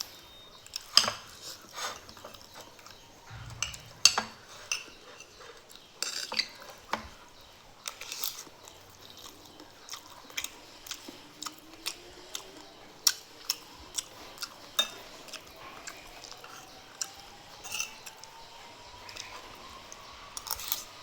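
Cutlery clinking against dishes in sharp, irregular clicks, with some chewing.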